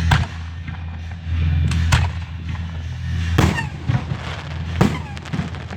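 Fireworks going off: about four sharp bangs a second or so apart, the last followed by a brief burst of crackling, over a steady low hum.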